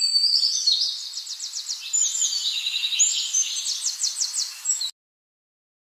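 A songbird singing a run of high, quickly repeated notes and trills. The sound cuts off abruptly about five seconds in.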